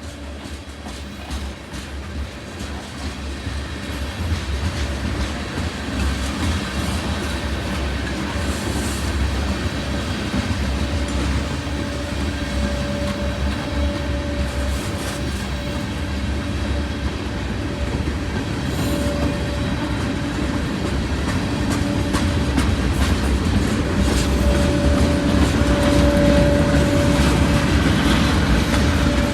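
CSX manifest freight train working uphill, growing steadily louder, with a low rumble, wheel clatter and a steady whine above it.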